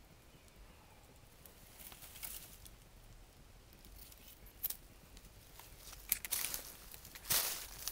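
Rustling and crackling of brush and branches as someone clambers over logs, with a few sharp clicks, growing busier and louder near the end.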